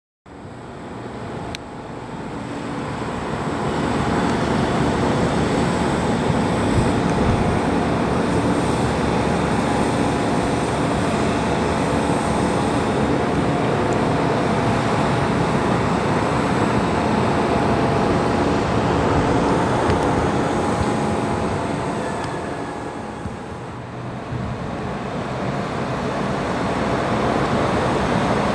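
Steady vehicle engine and traffic-like noise, building up over the first few seconds and dipping briefly near the end before returning.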